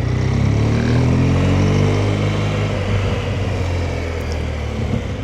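BMW GS boxer-twin motorcycle engine pulling, rising in pitch for about two seconds, then easing off as the revs fall away.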